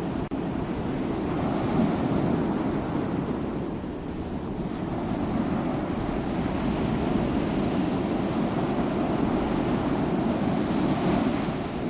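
Sea waves washing ashore, a continuous rush of surf that eases off about four seconds in and swells again toward the end.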